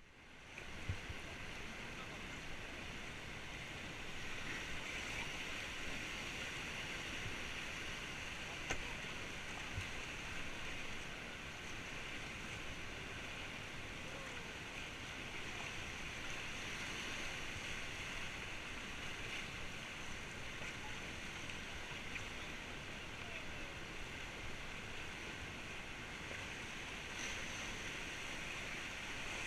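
Steady rush of fast-flowing river water through rapids, with a few brief knocks near the start and about nine seconds in.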